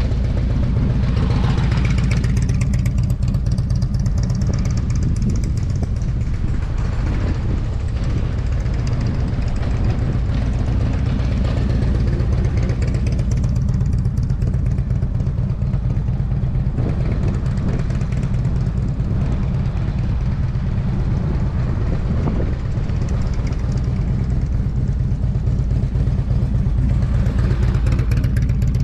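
Motorcycle engine running at low speed, with a steady low rumble and its sound swelling and easing every few seconds as it is worked through a cone course.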